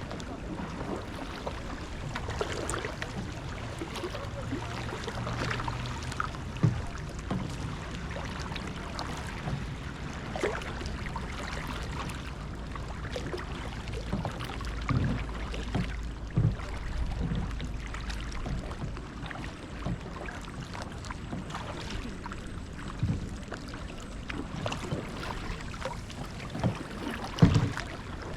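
Passing motorboat's low engine drone, strongest about halfway through, with kayak paddle splashes and water lapping at the hull.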